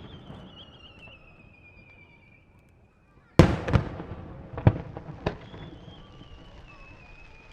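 Aerial fireworks shells bursting: one loud bang about three and a half seconds in, then a few more bangs over the next two seconds. A high, wavering whistle slides slowly down in pitch before and after the bangs.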